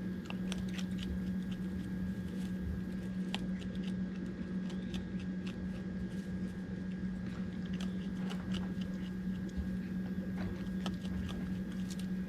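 Dry dog food being crunched and chewed by feeding animals, a raccoon among them: irregular small crisp clicks. A steady low hum runs underneath.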